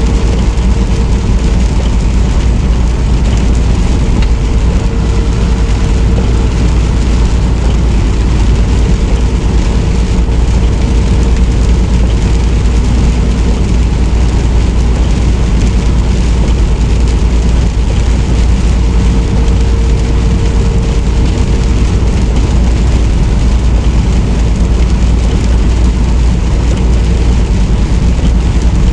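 Semi-truck cab noise while driving: the engine's low steady drone and road noise. There is no letup and no change in pitch.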